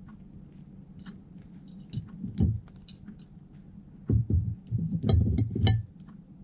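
Small hard objects being handled: scattered light clinks and taps, then a busier run of clinks and dull knocks about four seconds in.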